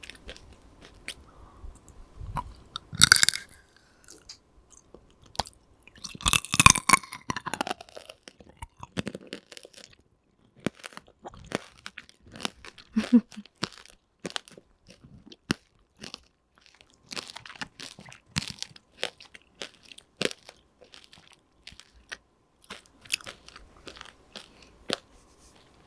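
Close-miked chewing of tanghulu, its hard candy-sugar shell crunching and cracking between the teeth. Two loud crunching bites come about 3 seconds and about 6 to 7 seconds in, followed by many small sharp crackles as it is chewed.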